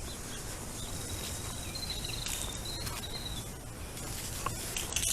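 Outdoor background with a steady high-pitched insect trill that starts about a second in and lasts about three seconds, with a few faint clicks.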